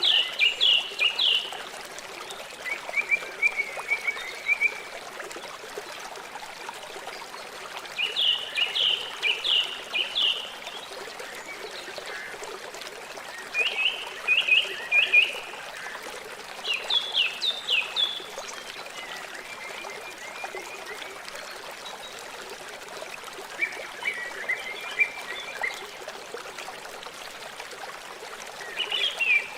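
River water flowing and trickling steadily. An animal calls over it in short phrases of quick, high, downward chirps, about eight phrases spaced a few seconds apart.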